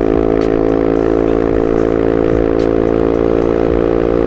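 Yamaha Mio i 125 scooter's single-cylinder engine running at a steady speed under way, its fuel-injected engine fitted with a larger 135cc injector. The engine note holds one even pitch.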